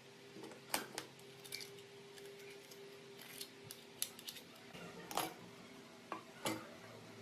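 Small metal parts and hand tools clinking and clicking against each other in a handful of irregular sharp knocks, the loudest near the start and about five seconds in, over a faint steady hum.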